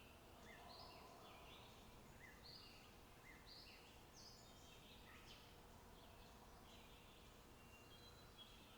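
Faint birdsong: many short chirping notes from small birds, repeated throughout, over a faint low background hush.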